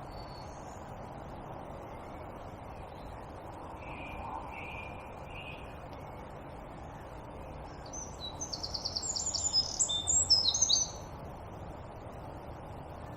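Wild birds singing over a steady low background hiss: faint calls about four seconds in, then one songbird's loud, rapid run of high notes lasting about three seconds.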